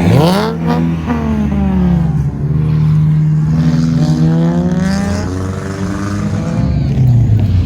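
Several race car engines revving as the cars go round the track, their pitch rising and falling in overlapping sweeps as they accelerate and lift off.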